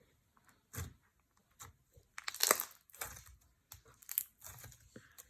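Clear slime being squished and worked by hand, giving irregular clicks and crackles, loudest about halfway through.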